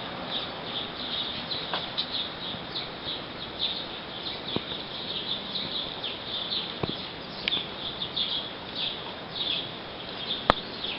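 Small birds chirping continuously in many short, high notes, with a few faint clicks and one sharp click near the end.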